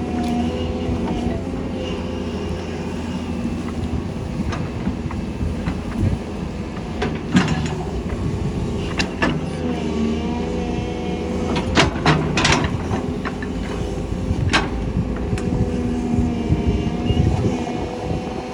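Doosan excavator's diesel engine running steadily under hydraulic load, its pitch dipping and rising briefly near the middle. About five sharp clanks come in the middle part.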